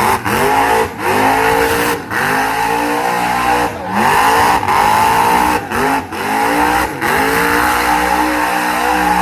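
Monster truck engine revving hard, climbing in pitch again and again, with the throttle cutting briefly every second or two.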